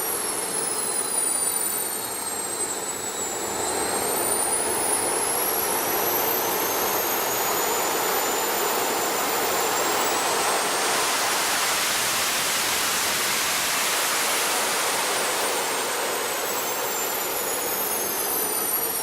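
Twin engines driving propellers, running on a test with a loud high whine over a rushing noise; the pitch drops a few seconds in, climbs back up and holds, then drops again near the end as the throttle is changed.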